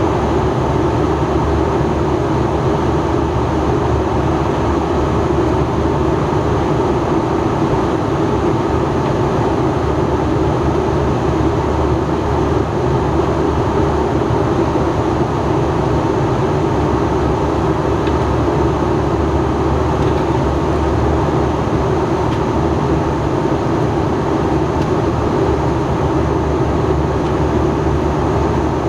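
Steady cabin noise inside an Airbus A321 airliner in flight: a constant, even rumble of airflow and engines with no changes.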